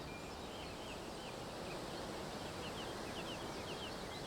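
Small birds calling: a run of short, high, down-slurred chirps repeating over a steady hiss of outdoor ambience.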